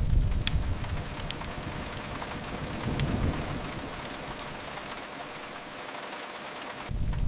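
Steady rain falling on a window, with the sharp pops and crackles of a wood fire scattered through it. Low rumbles swell at the start, again about three seconds in, and near the end.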